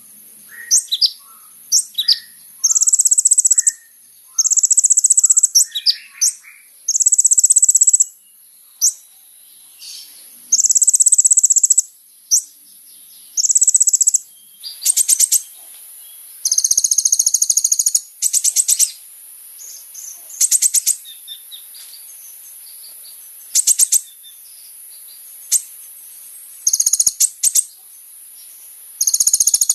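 Kolibri ninja sunbird singing: sharp high chirps mixed with long, high, buzzy trilled notes about a second each, repeated with short pauses.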